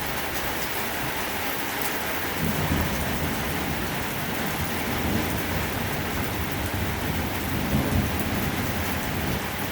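Heavy thunderstorm rain pouring steadily, with low rolling thunder rumbling in from about two seconds in and swelling a few times.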